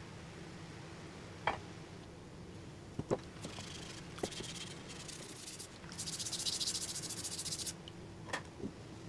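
Light knocks and clicks of parts being handled, then a fast scratchy rasp, like scrubbing, for nearly two seconds past the middle.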